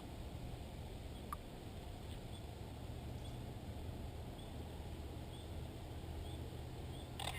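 Faint high chirps of small birds, a few seconds apart and irregular, over a low steady rumble. There is one short click a little over a second in.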